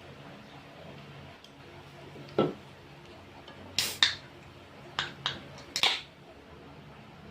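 Close-up eating sounds of a person eating balut: about half a dozen short, sharp clicks and smacks, starting about two seconds in and bunched in the second half.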